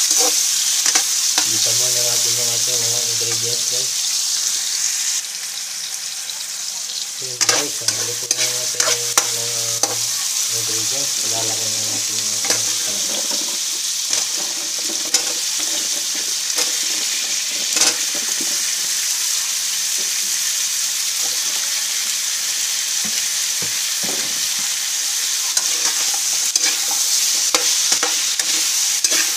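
Onions and tomatoes sautéing in hot oil in a stone-coated wok: a steady sizzle, with a metal ladle scraping and clicking against the pan as it stirs. A low hum comes and goes twice in the first half.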